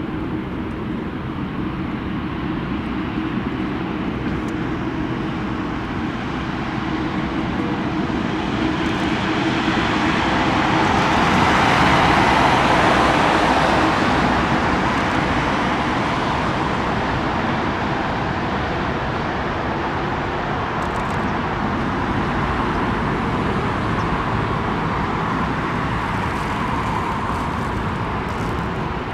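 Jet airliner taking off: a steady rushing engine noise that swells to a peak about twelve seconds in, then slowly fades.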